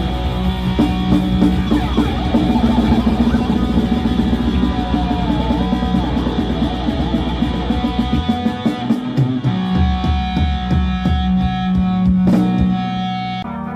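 Live rock band playing: electric guitars, bass and drum kit. About eight seconds in the low end drops away, leaving held guitar chords and scattered drum and cymbal hits.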